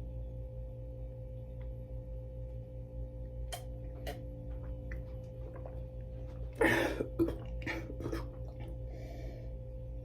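A person gulping and swallowing while chugging iced tea from a glass drinking boot, with scattered small clicks and one louder gulping burst about two-thirds of the way through. A steady low hum runs underneath.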